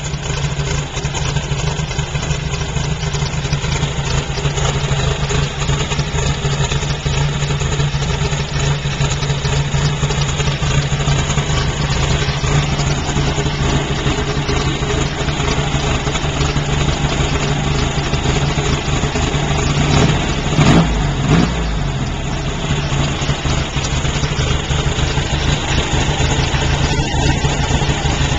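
Air-cooled VW Beetle flat-four, turbocharged and intercooled on MegaSquirt fuel injection, idling steadily while still warming up on a rich warm-up mixture. A few short knocks come about twenty seconds in.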